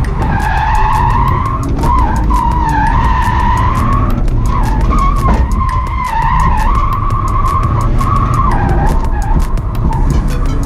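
BMW E46 330Ci's 3.0-litre M54B30 straight-six held at high revs through a drift run, its pitch wavering up and down as the throttle is worked. The tyres skid and slide on the pavement throughout.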